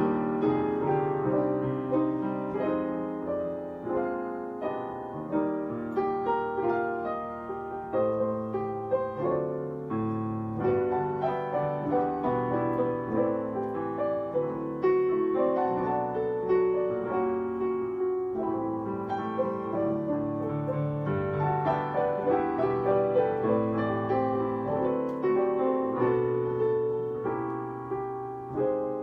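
Piano playing a continuous, flowing piece: melody over a moving accompaniment, with notes struck in steady succession.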